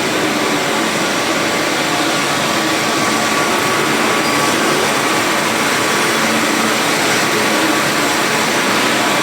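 Steady, loud mechanical whir with faint steady tones underneath, from heavy machinery running.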